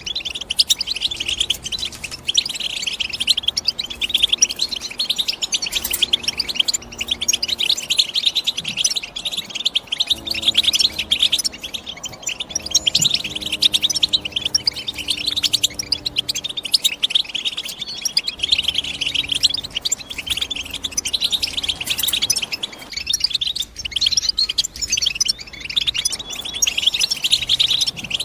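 European goldfinch singing without pause: a rapid, twittering stream of chirps and trills.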